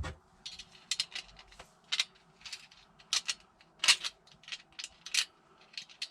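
A dull thump, then a string of light, irregular clicks and clinks of small hard objects being handled, about two or three a second.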